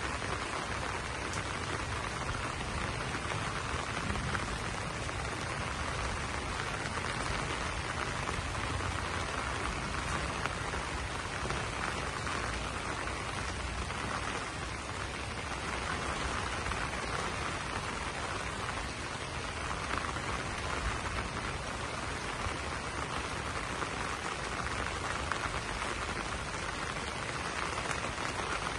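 Steady rain falling on banana leaves, an even, unbroken wash of drops that holds at the same level throughout.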